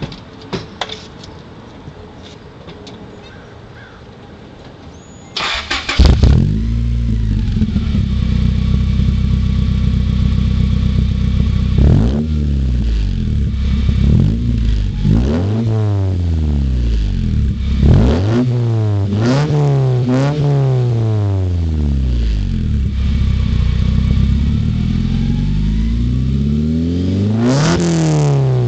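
1990 Honda Accord's F22A 2.2-litre four-cylinder engine, breathing through an aftermarket header, 2.5-inch piping and a Wicked Flow muffler: it cranks and fires about five seconds in, settles to an idle, then is blipped repeatedly, the exhaust note rising and falling sharply with each rev.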